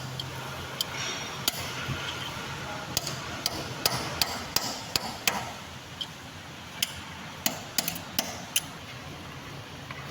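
A hammer striking a stiff lock on a truck's brake assembly to knock it loose: about fifteen sharp blows at an uneven pace, in clusters with a short pause around the middle.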